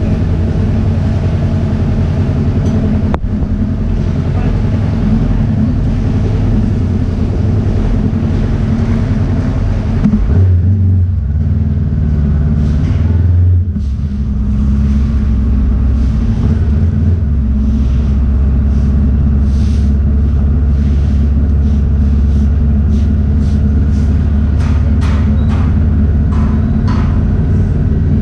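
Honda CB500X's parallel-twin engine running steadily as the motorcycle rides along. Its note changes between about ten and fourteen seconds in, then settles again.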